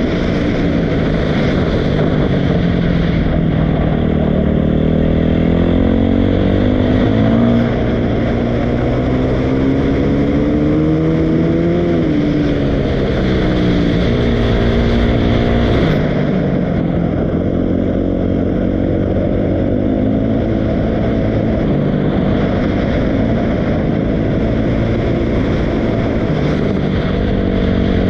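Dirt bike engine running continuously, its pitch rising and falling with the throttle; about sixteen seconds in the note drops sharply and the sound turns duller.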